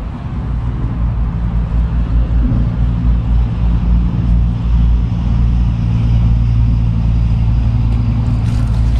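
An engine running steadily with a deep rumble and a steady low drone, growing a little louder and firmer about two seconds in.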